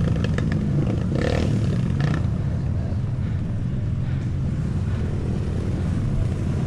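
Sport quad's engine running steadily under way, with a few clicks and knocks in the first two seconds.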